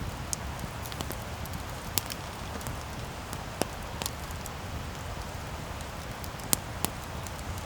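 Wood campfire burning: a steady low hiss with irregular sharp crackles and pops from the burning wood, the loudest pop a little after six and a half seconds in.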